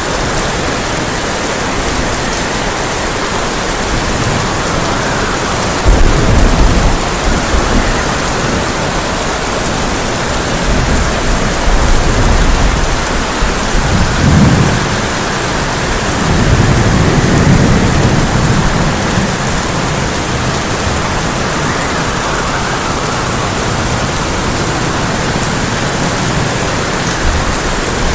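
Heavy rain falling steadily on a tin roof, with thunder. A sudden loud clap comes about six seconds in, then several deep rumbles that swell and fade through the middle.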